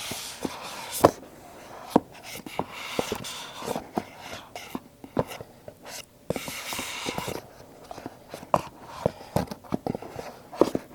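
Hands handling rigid cardboard Apple product boxes: a string of sharp, irregular taps and clicks over stretches of soft rubbing and sliding.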